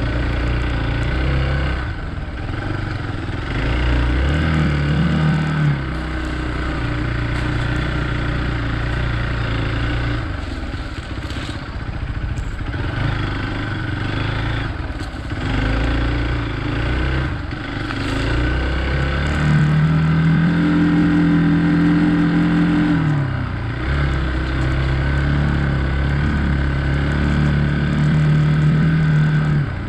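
Hero Xpulse 200's single-cylinder engine running under changing throttle, its pitch climbing and holding higher as it revs up several times, with short knocks and rattles from the bike over rough ground.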